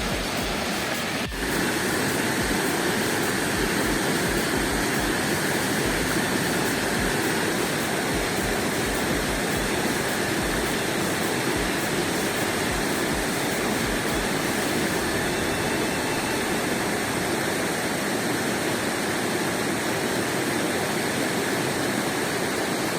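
Mountain river rushing steadily, a dense even sound of flowing water with a short break about a second in.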